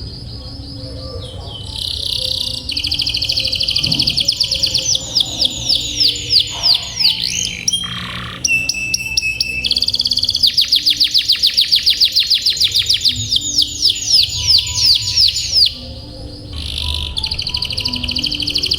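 Domestic canary singing: fast repeated notes run together into long rolling trills, the longest held for about five seconds, with short breaks between phrases.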